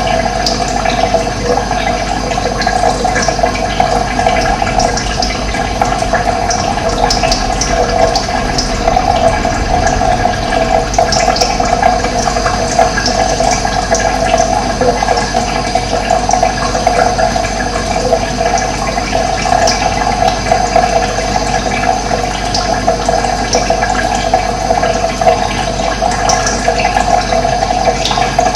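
Running water, flowing and splashing steadily without a break.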